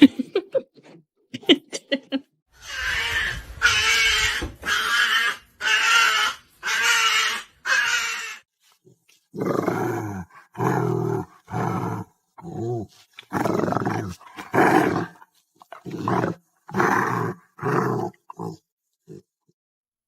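A dog growling and grumbling in a long run of drawn-out calls: about six rasping, higher ones, then around a dozen shorter, deeper ones.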